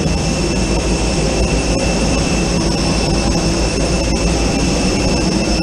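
Steady, loud jet engine noise: a deep rumble under a constant high-pitched whine, with no change in pitch.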